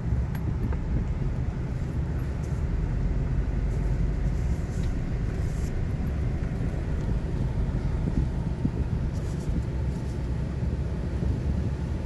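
Steady low rumble of a car's engine running.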